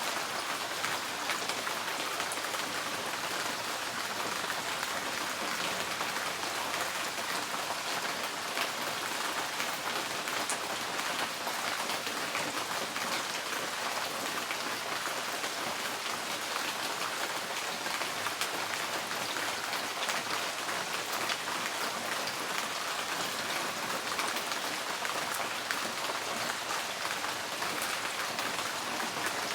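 Steady rain drumming on a tin porch roof, a dense even patter of countless drops with individual drop ticks through it.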